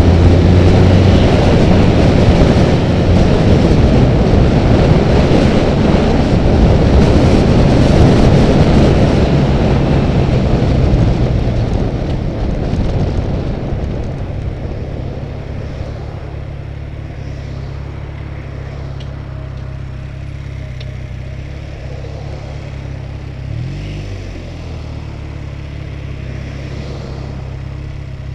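Honda Rebel motorcycle under way: loud wind rush over the engine, which fades about halfway through as the bike slows, leaving the engine running steadily at low revs. Near the end the revs rise and fall once in a short blip.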